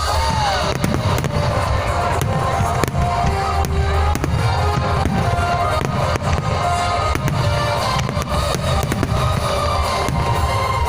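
Display fireworks going off in rapid succession, many sharp bangs and cracks, over loud music with a heavy bass.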